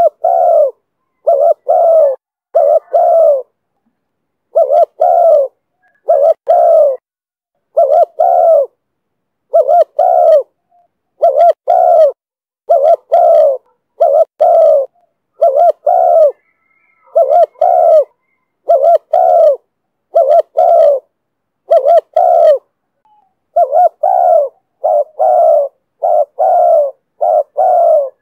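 Spotted dove cooing over and over, in the 'thổ thúc bổi' call style: short, low coo notes in quick groups of two or three, with a brief pause now and then.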